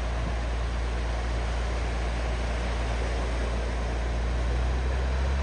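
Tractor engine running steadily, a low even hum under a constant broad rushing noise.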